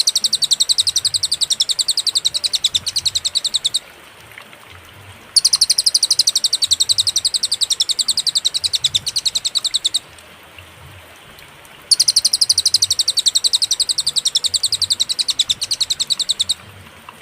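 A cililin songbird singing long, rapid, high-pitched trills in three bouts of about four to five seconds each, with short pauses between them.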